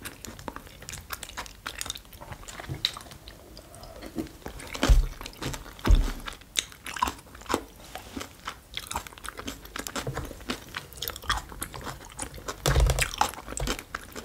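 Close-miked chewing and crunching of food, with many small mouth clicks and a few low thumps about five, six and thirteen seconds in.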